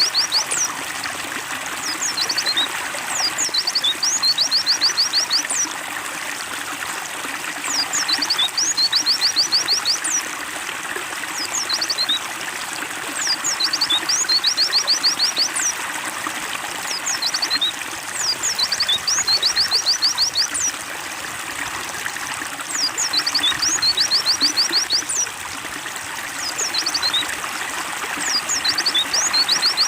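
Water trickling steadily, with a songbird's phrase of high, rapid chirps repeating about every five seconds. The repeats are identical, so the birdsong is a looped recording.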